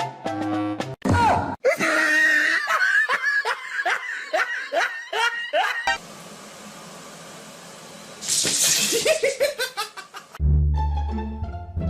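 Laughter in a quick run of short bursts, each falling in pitch, with a second shorter run later and music at the start and near the end.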